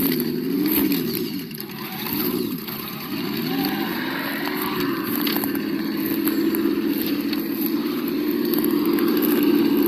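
Sound module of an Absima Yucatan 1:8 RC crawler playing a simulated engine note. The note rises and falls with the throttle a few times, then holds steady at a slightly higher pitch for the second half.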